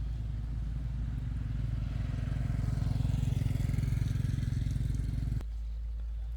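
Heavy diesel machinery engine running with a steady low drone that grows louder for a few seconds, then drops away abruptly about five seconds in, leaving a quieter low hum.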